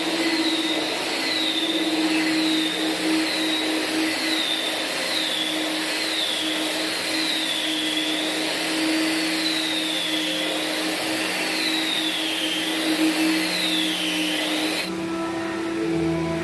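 Handheld Makita electric floor sander running on a white oak floor, grinding off the old coating: a steady drone with a high whine that wavers up and down as it is worked. Near the end the machine sound gives way to music.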